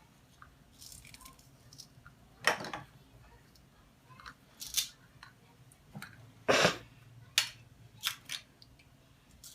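Toy food pieces being pulled apart and handled: a few short rasping rips, the loudest about two-thirds of the way through, among light plastic clicks and taps.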